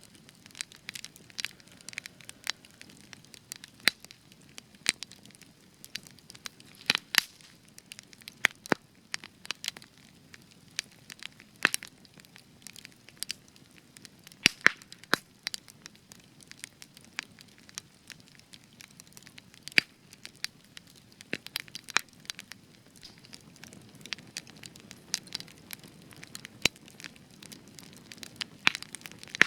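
Spruce wood burning in a campfire, crackling with frequent sharp irregular pops and snaps over a soft low rumble of flame.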